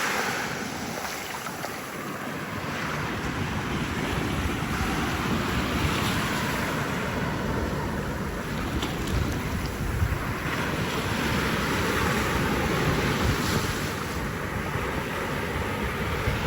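Ocean surf washing in and out, swelling and easing every few seconds, with wind buffeting the microphone.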